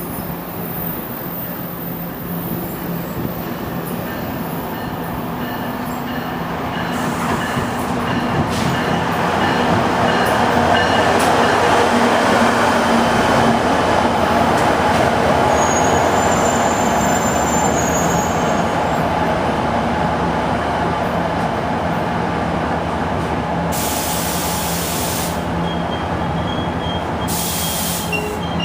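Commuter train on the move, a steady rumble with a low hum underneath that builds to its loudest about ten seconds in and then eases off a little.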